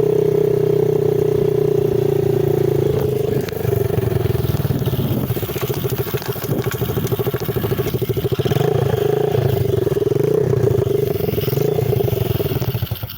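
Small single-cylinder 110 cc dirt bike engine running hard at steady high revs. About three seconds in the revs drop, then rise and fall unevenly, as they would with throttle changes on a climb.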